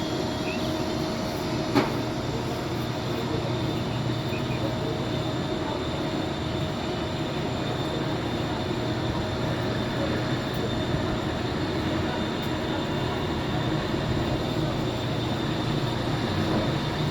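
Steady low mechanical rumble with a faint constant hum, like a running vehicle, and one sharp click about two seconds in.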